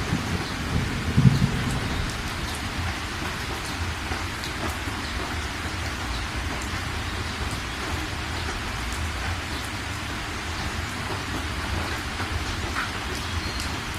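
Heavy rain falling steadily, with a low rumble of thunder dying away in the first couple of seconds.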